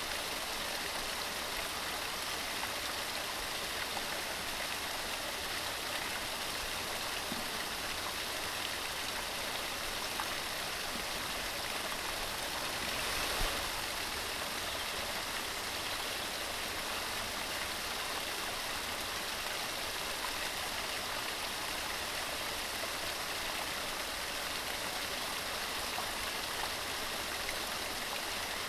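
Fast-running mountain stream, water rushing and splashing over rocks in a steady wash, swelling slightly about halfway through.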